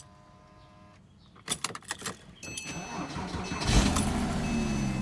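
Porsche Cayman S flat-six cold start: a few clicks as the ignition is switched on, the starter cranks, and the engine catches about three and a half seconds in, flaring up and then beginning to settle toward a fast cold idle.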